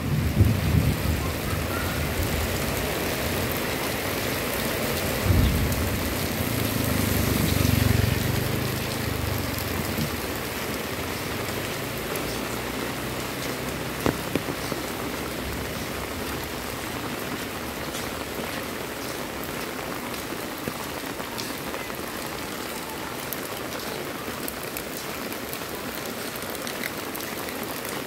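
Heavy rain falling steadily on a wet road and leaves. Low thunder rumbles through roughly the first ten seconds, swelling around the middle of that stretch, then dies away, leaving only the rain.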